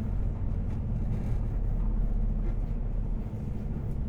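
Semi-truck diesel engine running steadily at low speed, a constant low rumble.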